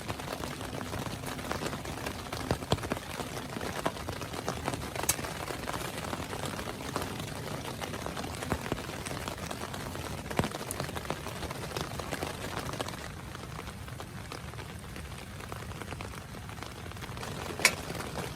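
Heavy rain pattering on a small tent, a steady hiss dotted with sharp individual drop hits. It eases a little about two-thirds of the way through, with one sharper tap near the end.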